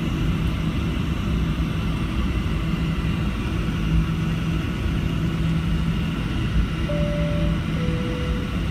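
Steady cabin rumble inside a Boeing 737-700 with a constant low hum. Near the end, a two-note high-low cabin chime sounds.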